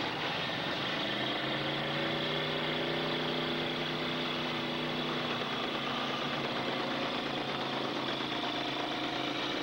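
Demolition derby cars' engines running together at once, a steady mechanical drone whose pitches waver slightly as the drivers work the throttle.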